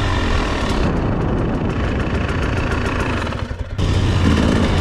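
Two-stroke dirt bike engine running at low revs, with a brief drop in sound about three and a half seconds in before it picks up again.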